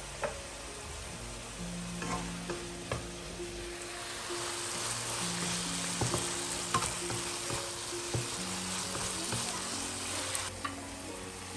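Eggplant and red chili sizzling in a nonstick frying pan as a wooden spatula stirs and turns them, with clicks and scrapes of the spatula against the pan. The sizzle swells about four seconds in and drops back near the end.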